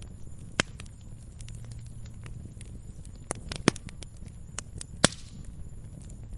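Wood fire crackling in a fireplace: scattered sharp pops and snaps over a low steady burning rumble, with the loudest pops a little past half a second, around three and a half seconds, and about five seconds in.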